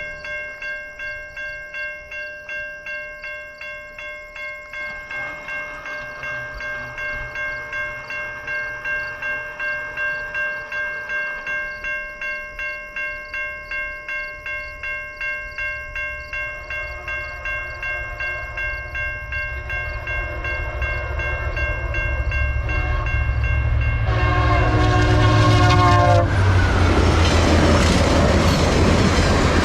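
Level-crossing warning bell ringing about twice a second while a passenger train approaches with a growing low rumble. Near the end the locomotive's horn sounds briefly, then the train passes with a loud rush of wheels on rail.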